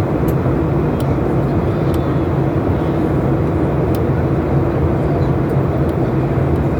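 Steady drone of a Boeing airliner in flight, heard from inside the cabin: engine and airflow noise sitting low in pitch, with a few faint clicks.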